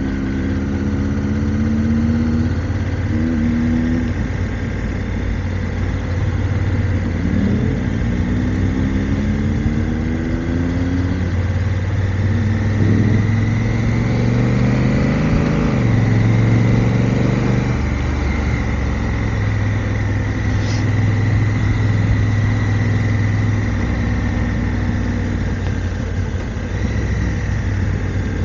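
Motorcycle engine under way, its pitch climbing several times as it accelerates through the gears, then holding steady at a cruise.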